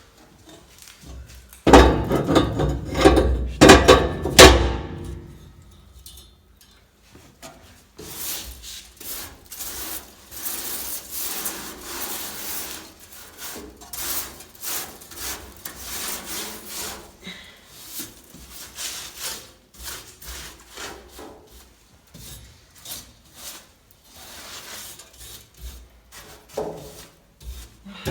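Knocking and clattering for about three seconds, then a long run of quick rubbing and scraping strokes: ash and soot being scraped and brushed out of a fireplace.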